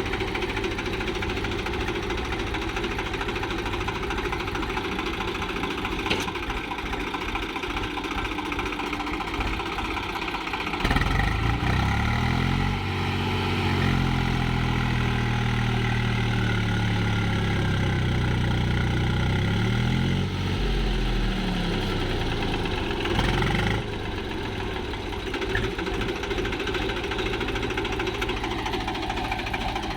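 Diesel tractor engine running with a steady throb. About eleven seconds in, a louder, deeper engine note comes in, shifting up and down in pitch as it works, and it drops away again near the end.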